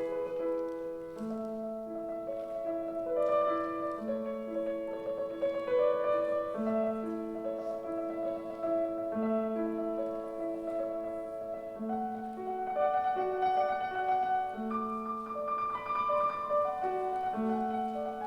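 Piano playing a slow, calm piece: held notes in a gently moving pattern over a low note that returns every two to three seconds.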